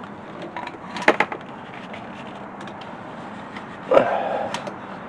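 Sharp plastic and metal clicks and knocks from hands working at a stubborn electrical connector plug in an engine bay, a quick cluster about a second in, then a brief squeak or scrape near four seconds.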